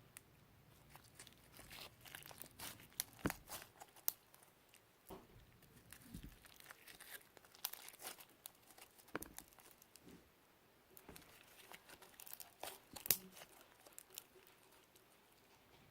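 Hands playing with slime: an irregular run of small clicks, pops and crackles as it is pressed and stretched, with the sharpest snap about thirteen seconds in.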